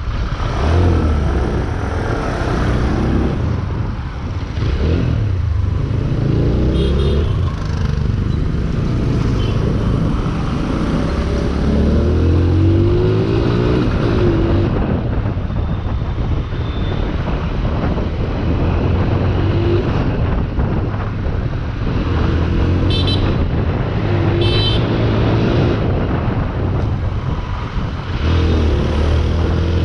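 Motorcycle engine running while riding, its pitch rising and falling with the revs, with wind noise on the microphone. About two-thirds of the way through come two short horn beeps.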